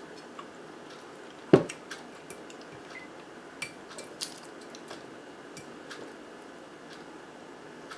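Tableware being handled: scattered light clicks and clinks, with one louder knock about a second and a half in, like an object set down on the table.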